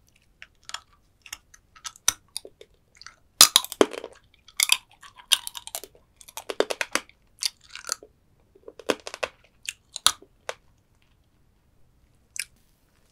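Close-miked crunching and chewing of soy-sauce-marinated stone crab, the shell cracking between the teeth in irregular clusters of sharp crackles, loudest about a third of the way in.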